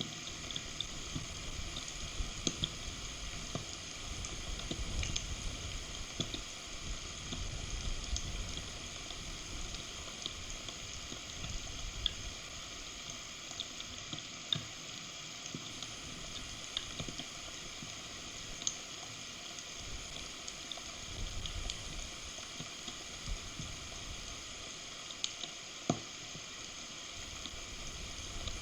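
Heavy rain falling on and around the nest camera: a steady hiss full of scattered sharp drop ticks, with gusts of low rumbling from wind on the microphone. A sharper single click stands out near the end.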